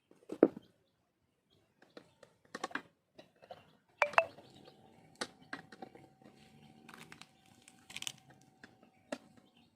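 Scattered clicks, taps and knocks of small metal parts and hand tools being handled while a chainsaw is worked on. A faint steady high tone runs under the second half.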